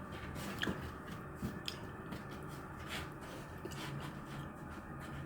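Kittens playing in cardboard boxes: a few faint scattered scratches, taps and bumps over a steady low room hum.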